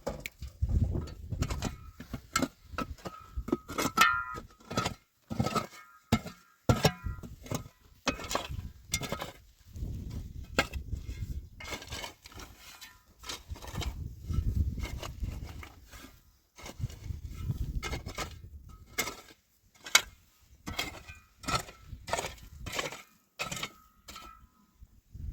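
Irregular series of sharp knocks and clinks, some with a brief ringing tone, mixed with low rumbling handling noise.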